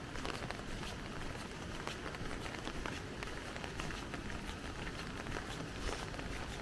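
Rain falling on an umbrella: dense, irregular taps of drops hitting the canopy over a steady hiss of rain, with a low rumble underneath.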